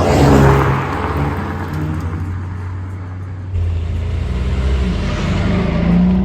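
Mercedes-AMG CLA 35's 2.0-litre turbocharged four-cylinder engine and exhaust under throttle. The sound is loudest about half a second in, then eases to a steadier drone. Its character changes abruptly about three and a half seconds in.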